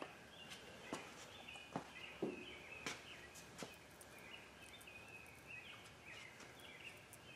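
Faint background bird chirping, short high calls repeating throughout, with a few soft clicks in the first four seconds.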